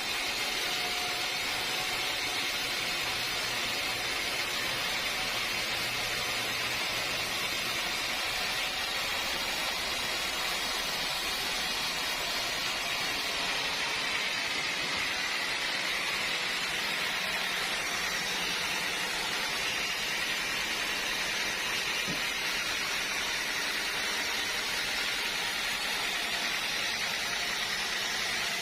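Steady, even hiss of sawmill machinery running, with no distinct cuts or knocks.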